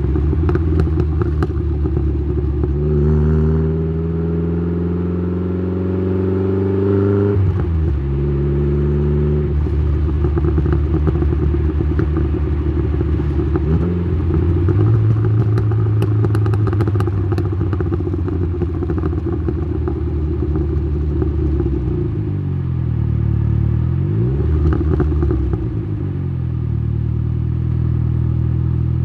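Tuned Saab 9-3's B204 turbocharged 2.0-litre four-cylinder engine heard through its exhaust while driving. The revs climb for about five seconds, drop sharply at a gear change, then run fairly steady, with two quick dips and rises near the end and some crackling in the middle.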